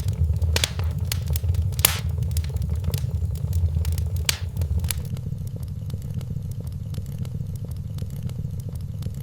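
Wood fire burning in a fireplace, crackling steadily over a low rumble of flame, with a couple of louder pops about 2 and 4.5 seconds in. The crackles thin out in the second half.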